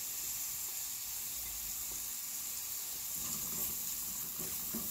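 Onions and ground spices frying in oil in a nonstick kadai, a steady sizzle; from about three seconds in a wooden spatula stirs and scrapes through the pan.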